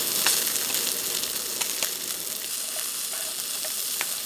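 Food frying on a hot camp stove, a steady sizzling hiss with scattered small pops and crackles.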